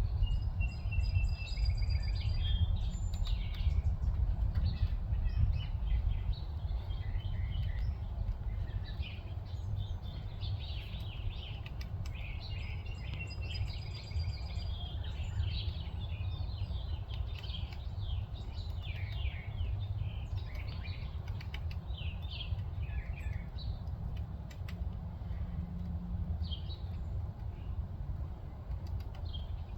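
Several songbirds chirping and singing in short calls and trills, over a steady low rumble.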